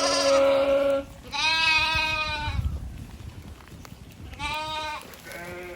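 Goats bleating: two loud calls of about a second each, then two shorter, softer ones near the end.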